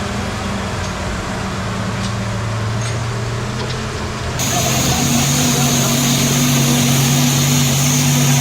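Heavy truck engine running steadily at low revs. About four seconds in the sound changes abruptly: the engine note shifts slightly and a steady hiss with a thin high whine comes in over it.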